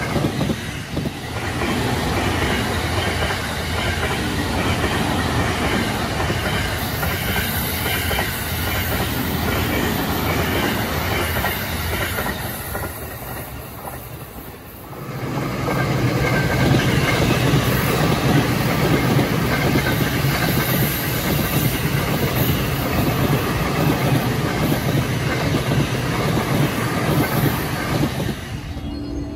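Two E217 series electric commuter trains running past: the first goes by and fades to a lull about 14 seconds in, then the next comes through louder, with a strong low hum under the rail noise, until just before the end.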